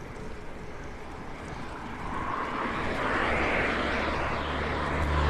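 Steady rushing noise from riding a bicycle, with an engine's low steady drone coming in and growing louder from about halfway through.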